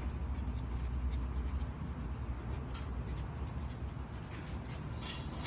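Faint, irregular scratchy brushing as a layer of bead sealer is brushed thickly over a rubber tire patch, over a low steady hum.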